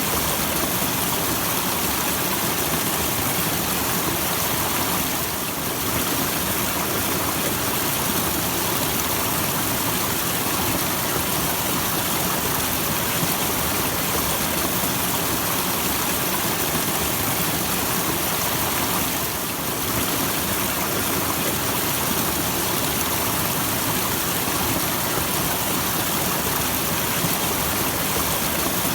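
Small natural waterfall: water falling and splashing in a steady, even rush like white noise, dipping slightly in level twice.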